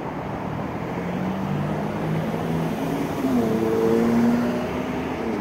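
Engine of a passing motor vehicle, its pitch rising about three seconds in and loudest about four seconds in, over a steady rush of background noise.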